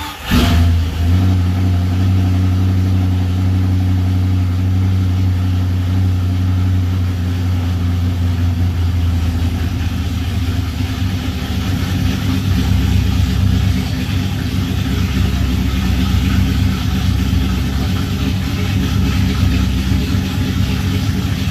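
Ford Racing Boss 302 V8, breathing through headers into a Flowmaster 10 series muffler, fires straight away and runs at a loud, fast idle that eases a little lower about halfway through. It is on its first start, with its Atomic EFI, as the owner puts it, still trying to figure out where it's at.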